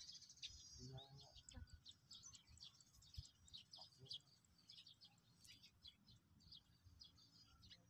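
Small birds chirping faintly, a dense run of short, high calls overlapping one another.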